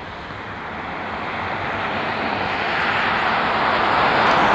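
Rushing noise of a passing vehicle, growing steadily louder as it approaches.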